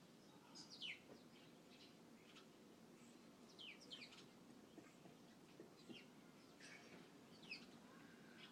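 Small birds chirping faintly: scattered short chirps, many sweeping quickly downward in pitch, over a quiet low background noise.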